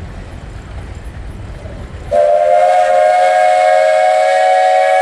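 Steam whistle on a 1920 Advance-Rumely steam traction engine, blown about two seconds in and held as a loud, steady chord of several tones. Before it there is only a low rumble.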